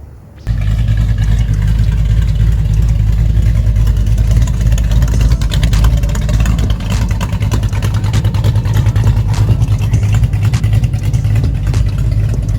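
Car engine and exhaust running with a loud, steady low rumble and rough crackle, starting abruptly about half a second in.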